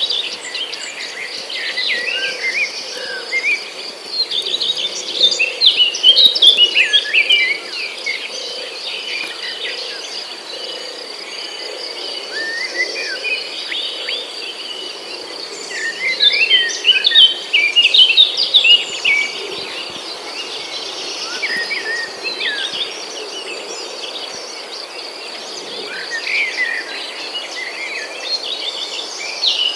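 Birds singing in bursts of quick chirps and trills over a steady high insect drone, like crickets or cicadas.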